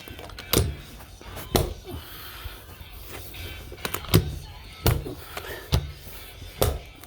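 About seven irregular sharp thuds and knocks from carpet installation work, roughly one a second.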